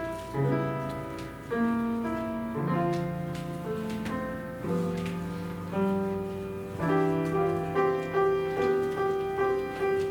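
Piano playing slow offertory music, with notes and chords struck every second or two and left to ring.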